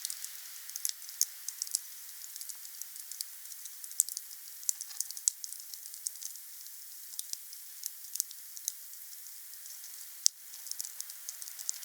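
Wood campfire crackling and popping: many irregular sharp snaps over a steady hiss, with one loud crack about ten seconds in.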